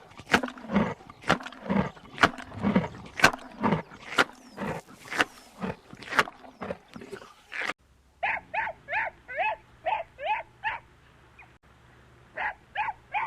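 Animal calls: a fast series of loud, harsh calls, then after an abrupt cut about eight seconds in, a different animal giving short high-pitched calls, about three a second.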